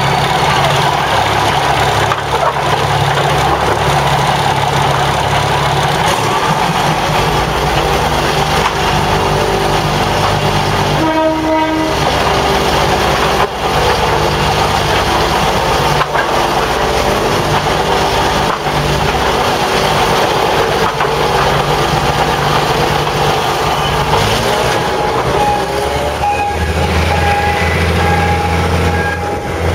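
Diesel railcar running slowly, its engine note stepping up a couple of times as the throttle opens, with wheels clicking over rail joints every couple of seconds. A short train horn blast sounds once, partway through.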